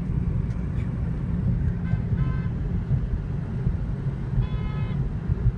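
Car road noise heard from inside the cabin: a steady low rumble, with two brief high-pitched sounds about two seconds and four and a half seconds in.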